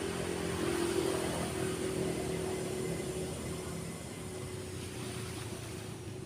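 A passing motor vehicle's engine hum, loudest about a second in and then slowly fading, over the steady wash of surf.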